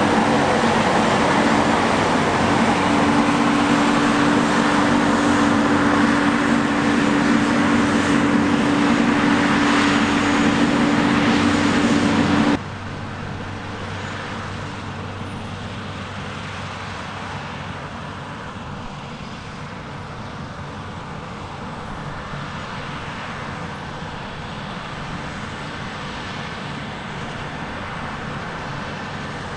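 Diesel engines of heavy harvest machinery running steadily, a loud drone with a held tone, which drops suddenly about twelve seconds in to a quieter, more distant machine rumble.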